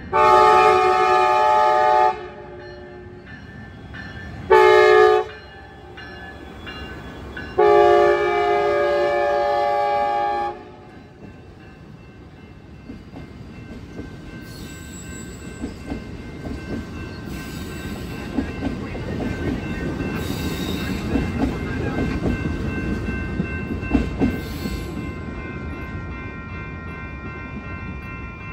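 Passenger train's locomotive air horn sounding for a grade crossing: a long blast, a short blast, then another long blast, each a chord of several pitches. The bilevel passenger cars then roll past with a growing rumble of wheel noise and sharp clicks over the rail joints.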